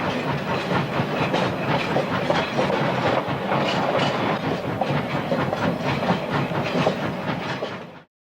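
Railway cars rolling along the track, their wheels clattering over the rail joints, until the sound cuts off suddenly near the end.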